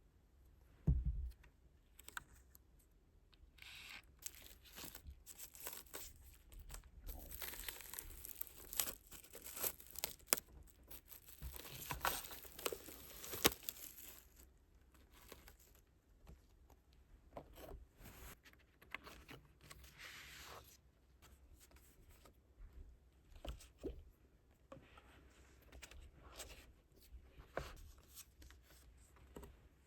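Album packaging being unwrapped by hand: tearing and crinkling of the wrapping, densest in the first half, with a single thump about a second in and lighter rustles and clicks later.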